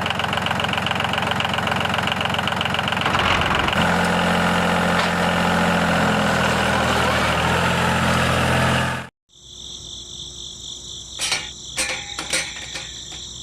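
A steady, engine-like mechanical running sound with a fast pulse, its tone shifting about four seconds in, cutting off abruptly about nine seconds in. Fainter scattered clicks and steady high tones follow.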